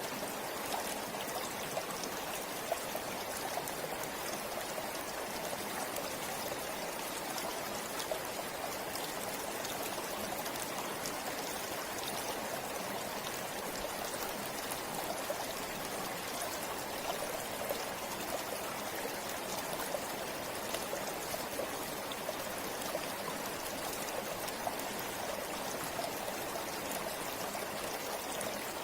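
A river or stream flowing steadily over rocks: continuous rushing water with small splashes and trickles.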